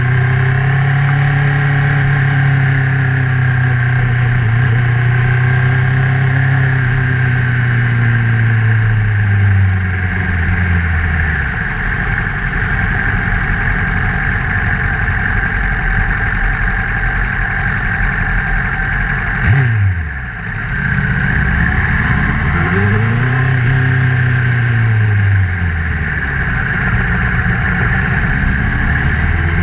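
Honda CBR1000RR's inline-four engine under way, its pitch falling slowly over the first ten seconds as the revs drop. About twenty seconds in the pitch drops sharply and climbs again, then rises and falls a few seconds later and climbs once more near the end. A steady rush of wind and road noise runs underneath.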